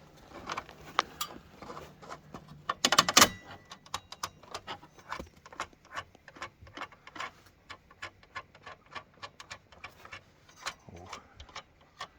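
Irregular light clicks and knocks, several a second, with a louder clatter about three seconds in.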